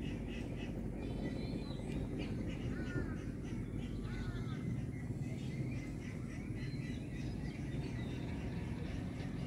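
Several short bird calls and chirps, some with a cawing quality, over a steady low rumble.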